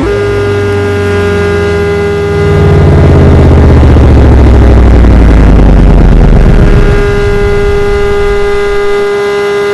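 ACA Hurricane warning siren sounding a loud steady tone, holding one pitch, with a low rumble that swells in the middle and eases off about seven seconds in.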